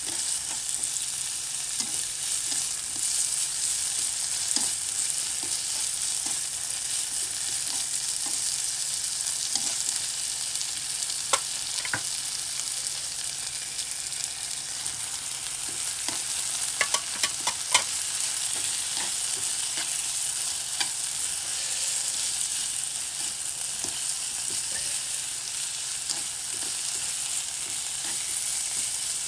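Sliced onions and fried tofu sizzling in oil in a nonstick frying pan as they are stirred with chopsticks: a steady hissing sizzle with light clicks, a cluster of them just past the middle.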